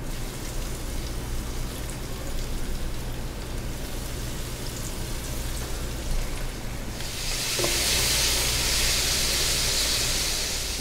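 Cornstarch-coated chicken breast pieces frying in hot cooking oil in a stainless-steel wok: a soft sizzle that swells into a louder, steady hiss about seven seconds in.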